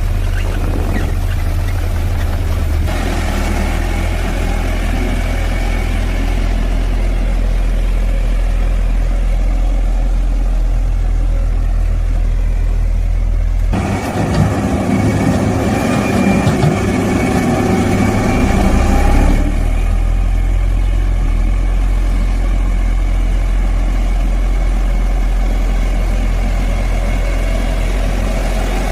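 Heavy construction machinery's diesel engine running steadily. About fourteen seconds in the sound changes abruptly to a rougher, slightly louder engine for about five seconds, then returns to the steady run.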